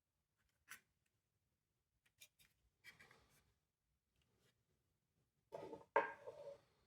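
Small plastic parts being handled and pried apart: a few light clicks and scrapes, then a louder burst of scraping and rubbing near the end.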